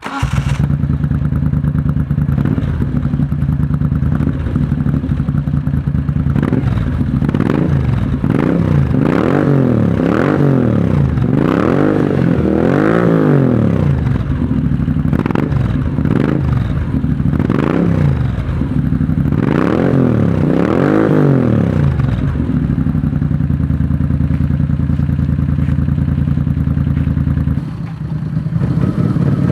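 Moto Guzzi V65 Florida's V-twin engine, on a custom scrambler build, idling steadily, then revved up and down many times in two spells in the middle before settling back to idle.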